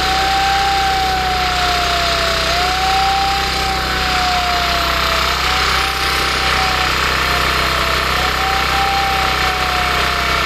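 A single wailing tone rises quickly and then sinks slowly, repeating about every two and a half to three seconds, over loud steady noise.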